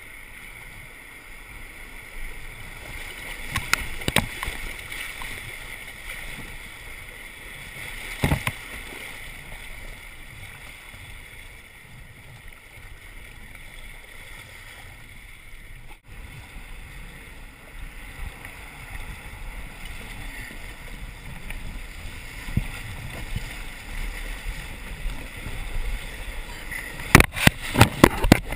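Steady rush of river water around a kayak, with a few sharp knocks: one about four seconds in, one about eight seconds in, and a quick run of them near the end.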